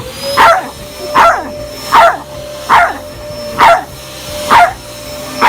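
Jack Russell terrier barking angrily at a vacuum cleaner: seven sharp barks, evenly spaced a little under a second apart. A faint steady hum runs underneath.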